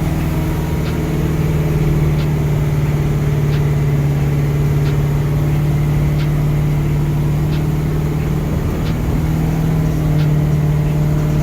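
Fire truck engine idling with a steady low hum, with a faint tick about every second and a half.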